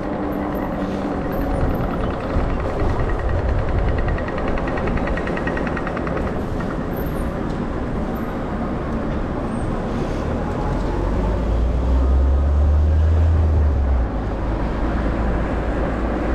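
Steady rushing noise of wind over the microphone on a moving bicycle, mixed with street noise. A heavier low rumble from wind buffeting runs from about eleven to fourteen seconds in.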